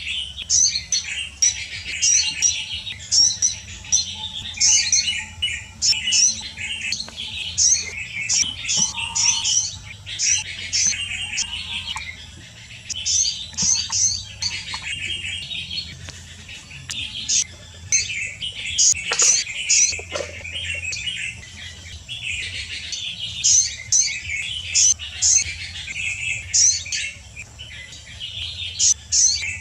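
Small birds chirping and twittering in a rapid, nearly unbroken high-pitched chatter, with a faint low hum underneath.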